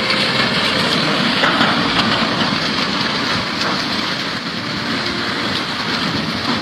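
Fast floodwater rushing in a steady, dense wash of noise.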